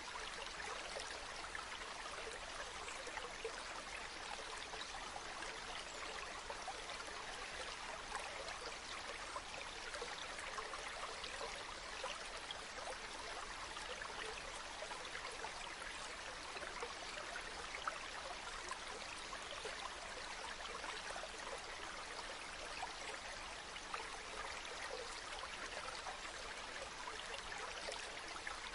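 A river flowing steadily, a continuous rushing with small splashes and trickles throughout.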